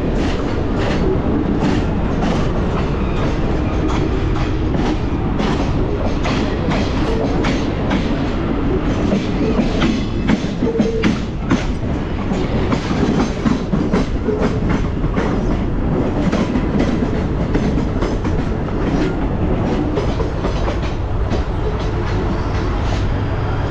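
Train running at speed, heard from its coach doorway: a steady rumble of wheels on rail with rapid clickety-clack as the wheels cross rail joints and points, the clatter busiest about halfway through.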